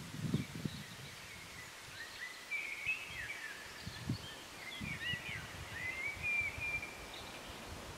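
Birdsong: a small songbird singing quick, twittering phrases that slide up and down in pitch, with a few soft low thuds mixed in.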